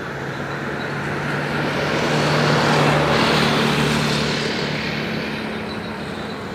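Airbus A320-216 jet with CFM56 turbofan engines passing by. Its engine noise swells to a peak about three seconds in, then fades away.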